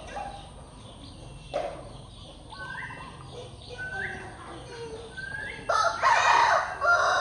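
Chickens calling: three short rising calls about a second and a half apart, then a loud, harsh call lasting over a second near the end.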